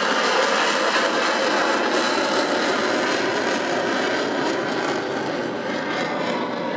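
Jet noise from the Black Eagles' KAI T-50B trainers flying overhead in display, a steady rushing roar that eases slightly and loses some of its hiss over the last couple of seconds.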